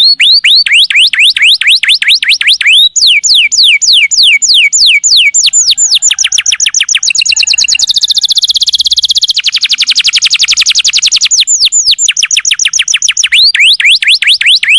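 Domestic canary singing one long unbroken song. It runs through a series of fast trills, each a rapid string of repeated sweeping whistled notes, several a second, switching from one note type to the next, with a denser buzzy roll about halfway through.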